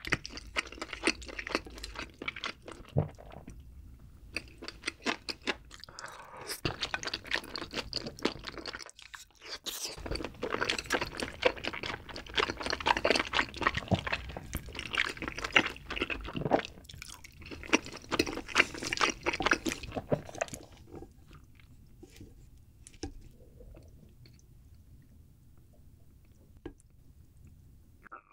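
Close-miked chewing and mouth sounds of a person eating rose tteokbokki, chewy rice cakes in a creamy spicy sauce. A dense run of crackly clicks lasts about twenty seconds, with a short pause near the middle, then thins to a few faint clicks.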